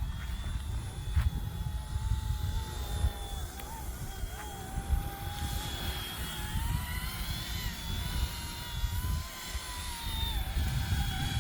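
Small electric RC helicopter's motor and rotor whining at a high pitch that wavers slightly up and down, with wind buffeting the microphone in gusts.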